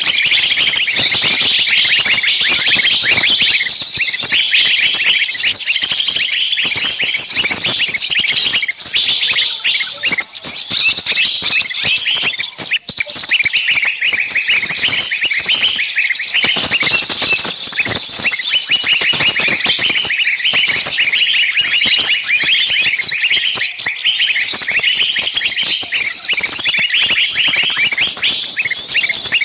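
Many small songbirds chirping and shrieking at once in a dense, unbroken, high-pitched chatter: a bird-lure recording of agitated, distress-type calls, as of birds screaming while caught.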